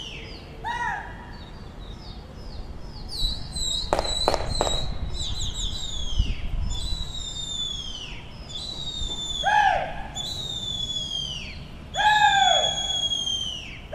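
Birds calling overhead: repeated whistled calls that slide downward in pitch, several overlapping and recurring every second or so. About four seconds in come three sharp cracks in quick succession.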